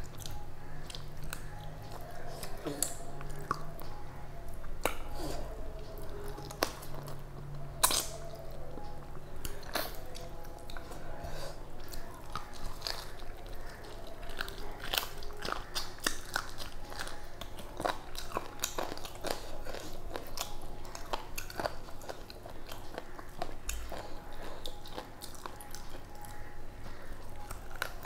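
A person chewing and biting food eaten by hand, rice and curried chicken, with many irregular sharp crunching clicks.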